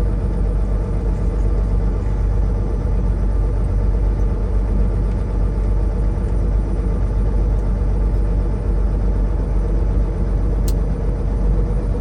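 Semi-truck's diesel engine and road noise heard from inside the cab, a steady low rumble while driving at town speed. A single short tick sounds near the end.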